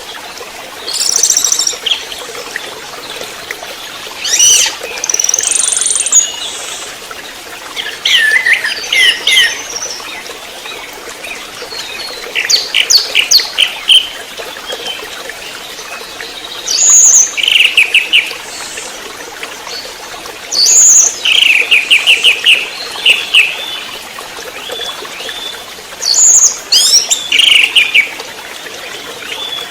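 Young orange-headed thrush singing: short phrases of high whistles and fast rattling trills, repeated every three to four seconds with pauses between them.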